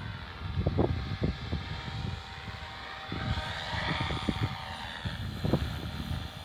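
Devil 380 electric RC helicopter in flight: its rotor and motor whine rises in pitch, then falls away, around the middle.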